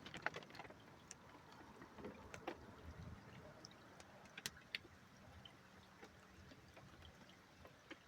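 Near silence: faint hiss and a steady low hum, with scattered light ticks.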